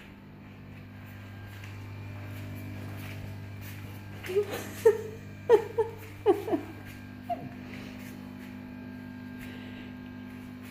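A domestic cat giving a quick series of about seven short meows, starting about four seconds in and ending about three seconds later, over a steady electrical hum.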